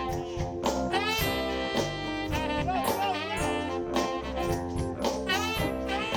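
Live soul band with a horn section playing an instrumental passage: saxophone, trombone and trumpet over drums, bass and keyboard, with a steady beat.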